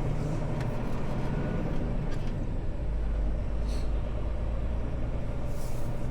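Semi-truck engine and road noise heard inside the cab while driving: a steady low rumble, with two short hisses in the second half.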